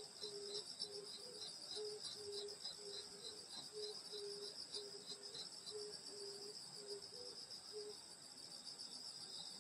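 Night chorus of crickets and other grass insects. A steady high trill runs under a separate chirping at about three chirps a second, which pauses shortly before the end. Beneath them a lower note repeats about twice a second and stops about eight seconds in.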